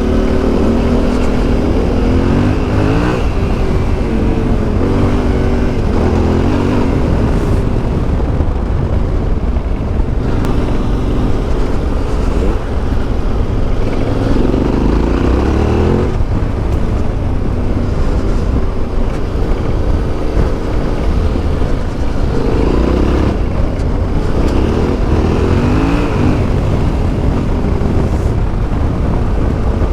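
Yamaha Ténéré 700's CP2 parallel-twin engine under way, its pitch climbing with the throttle and dropping off at gear changes several times over a steady low rumble.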